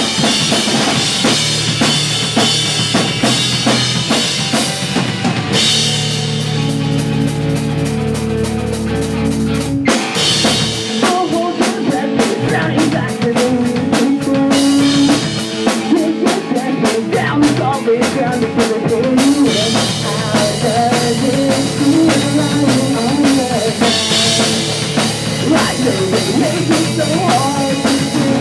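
Pop punk band playing live at full volume: drum kit with bass drum and snare driving under electric guitars. About ten seconds in, the wash of cymbals drops back, the drum hits stand out, and a wavering melody line comes forward.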